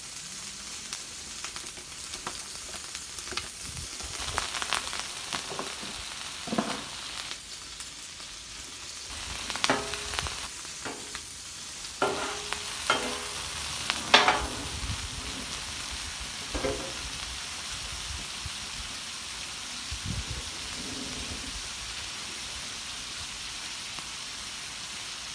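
Raw shrimp sizzling in melted butter on a Blackstone steel flat-top griddle. A metal spatula scrapes and taps on the griddle plate as the shrimp are stirred, mostly in the first two-thirds, over a steady frying hiss.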